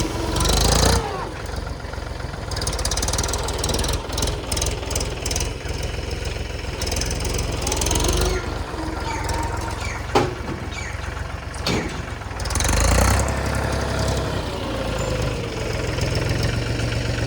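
Mahindra tractor's diesel engine running, revving up briefly about a second in and again near 13 seconds, with two sharp knocks between them.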